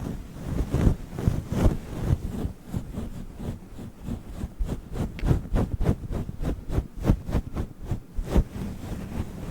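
Fluffy furry windscreen on the microphone being rubbed and scratched in quick strokes, giving a close, muffled brushing. The strokes come faster from about halfway through, around three or four a second.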